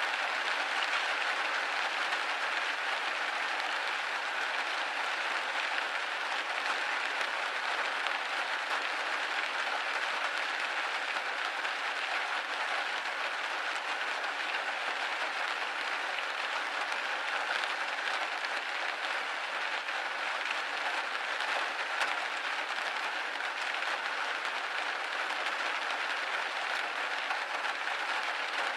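Steady rain pattering on a window pane: a dense, even patter with no let-up.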